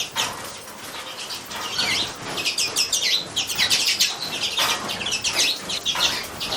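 Small birds chirping, a dense run of many short, rapid high-pitched chirps overlapping without pause.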